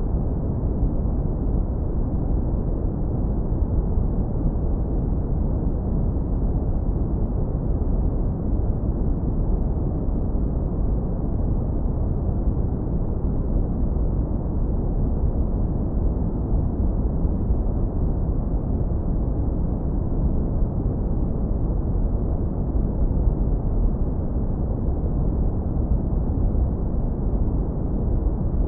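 Steady, continuous synthetic brown noise, low-passed hard so that only a deep, even rumble remains and nothing is heard above the low end.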